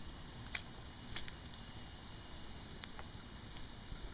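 Crickets chirping in a steady, continuous high chorus. A few faint clicks sound over it.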